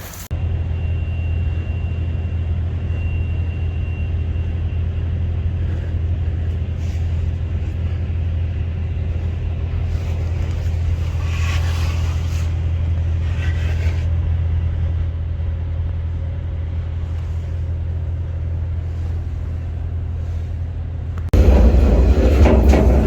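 Steady low rumble of a moving vehicle, unchanging for about twenty seconds. Near the end it cuts off abruptly and loud music comes in.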